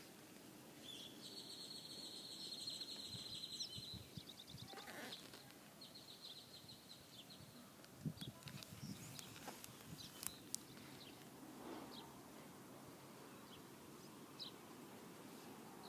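Faint outdoor background with a distant bird giving a high, buzzy trill for about three seconds near the start and a shorter trill around six seconds in. Light clicks and rustles of book pages being handled follow in the second half.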